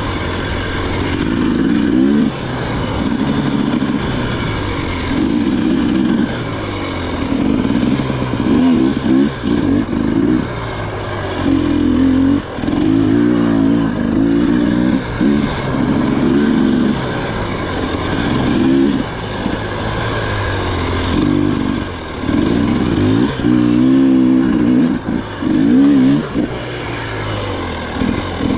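Dirt bike engine on a rough trail, the throttle opened and closed again and again so the engine note surges up and drops back every second or two.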